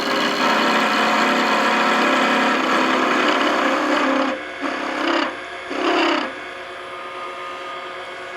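Turning tool cutting a spinning hickory spindle on a wood lathe: a steady scraping hiss for about four seconds, then two short cuts, after which only the lathe's running hum is left.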